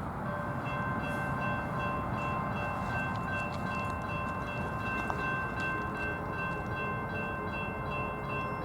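A Norfolk Southern freight train running past with a steady low rumble. Over it, from about half a second in, a high multi-tone sound is held without a break. There is one sharp knock about five seconds in.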